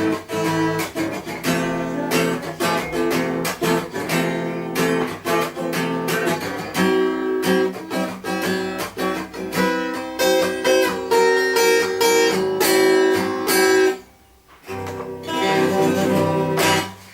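Acoustic guitar strummed in chords without singing, breaking off briefly about fourteen seconds in before a last chord is played and held.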